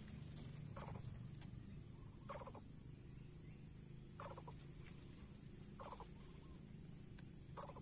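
A bird giving a short call five times, about once every 1.7 seconds, over a steady high drone of insects.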